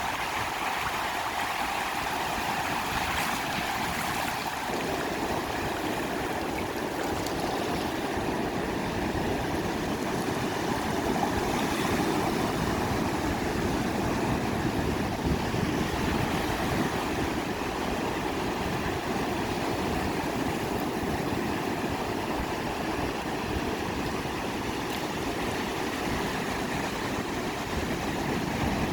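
Sea surf washing onto a beach, a continuous rushing noise. The lower rumble grows fuller about five seconds in.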